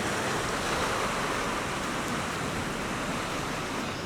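Sea surf washing against shoreline rocks: a steady rushing hiss with no single wave crash standing out.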